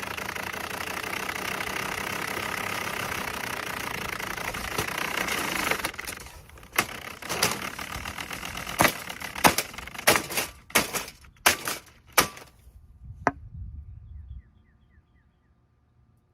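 A steady rushing noise for about six seconds, then about a dozen sharp, hard blows in quick, uneven succession as a Holmes box fan is smashed.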